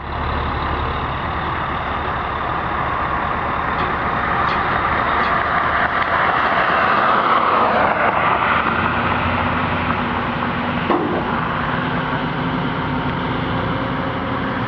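Steady vehicle engine and road noise, swelling a little about halfway through with a falling tone, then easing; a short click about eleven seconds in.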